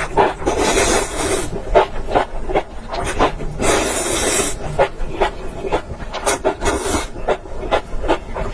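Close-miked eating of enoki mushrooms: quick wet chewing and smacking clicks, about three a second, broken twice by a long slurp of about a second, once near the start and again about three and a half seconds in.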